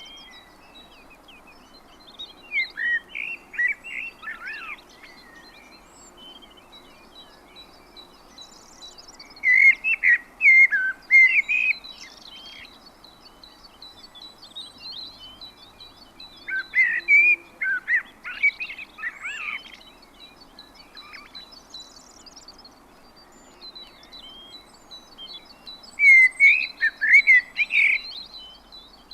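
A songbird singing four quick, warbled phrases a few seconds apart, each lasting two to three seconds, with a thin, high, rapid ticking or chirping running underneath and a faint steady background hiss.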